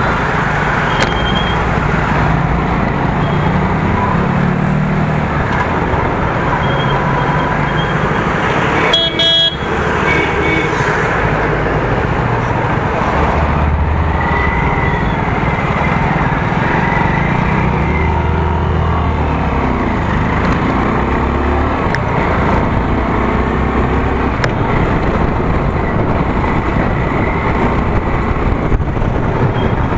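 Motorcycle riding in traffic, its engine note shifting with the throttle under steady road and wind noise. A vehicle horn sounds briefly about nine seconds in.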